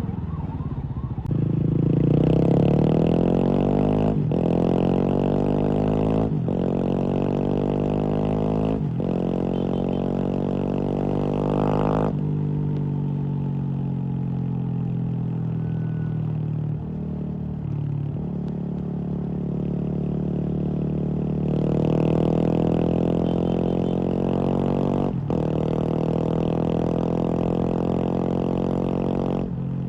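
Kawasaki KLX230 single-cylinder engine running through a Norifumi full-system aftermarket exhaust. It is revved slowly up, drops back to idle suddenly about twelve seconds in, idles steadily, then is revved up again and drops back once more. A few short clicks are heard along the way.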